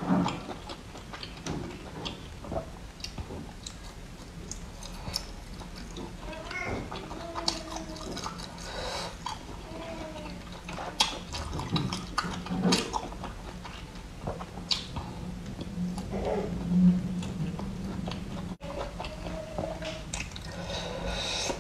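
A person chewing spicy food close to the microphone, with wet mouth sounds, lip smacks and scattered small clicks.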